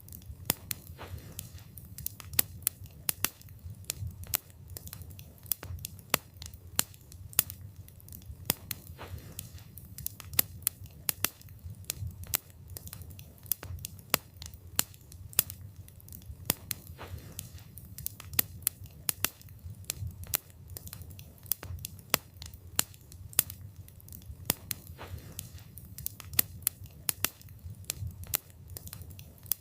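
Wood fire burning with irregular sharp crackles and pops from the wood, over a steady low rumble of the flames.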